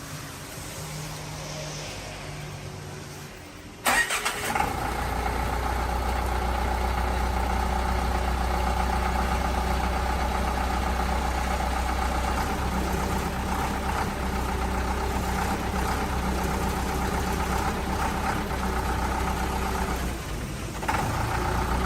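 Diesel engine starting about four seconds in, then running steadily, fed by the restored pressure pump.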